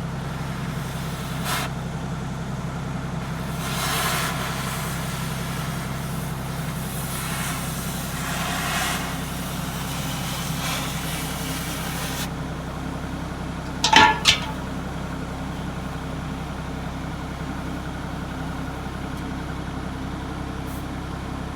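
An engine idling steadily, with a few brief work noises over it and two sharp sounds in quick succession about 14 seconds in.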